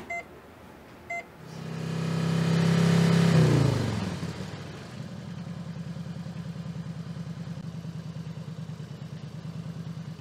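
Two short electronic beeps from a hospital patient monitor, then a motorcycle engine revs up, loudest about three seconds in, drops back in pitch and settles into a steady, quickly pulsing idle.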